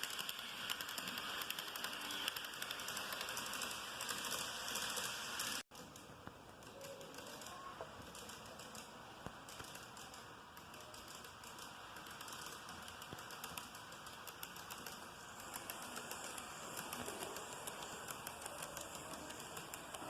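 TOMIX N gauge model of a Meitetsu 7000 series train running on track: a fast, dense clicking rattle of the small wheels and motor. It cuts out for an instant about six seconds in, then carries on a little quieter.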